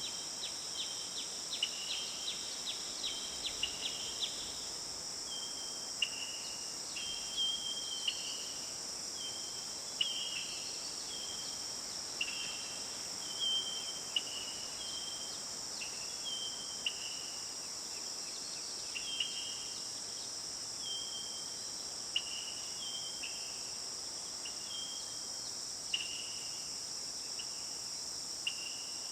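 Nature ambience of a steady, high insect chorus, crickets by the sound, with short chirping notes repeating about once a second over it. There is a quick run of clicks in the first few seconds.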